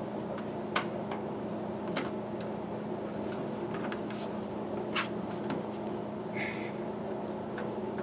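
A few sharp clicks and taps of small metal tools and parts being handled, the loudest about a second, two seconds and five seconds in, over a steady background hum.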